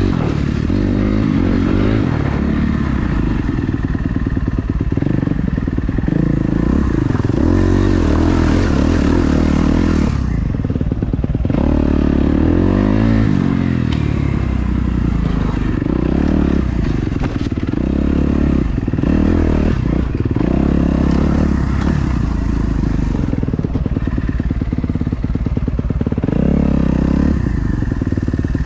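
Dirt bike engine being ridden off-road, its revs rising and falling again and again as the rider works the throttle.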